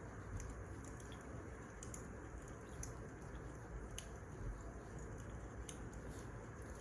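Wood fire crackling: a steady low hiss and rumble of burning logs with irregular sharp pops and snaps, about one a second, the sharpest about four seconds in.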